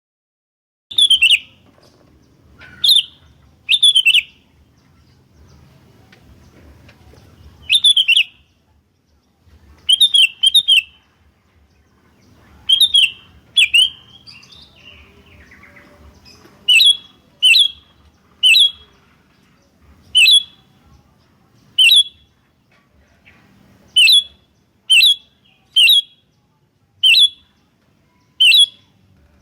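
Sooty-headed bulbul (kutilang) giving short, loud, chirping calls again and again, often two in quick succession, every second or two.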